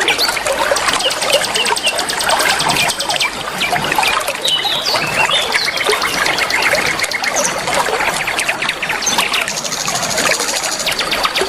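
Several small songbirds chirping and singing rapid high trills over steady trickling water, a mix made to set other birds singing.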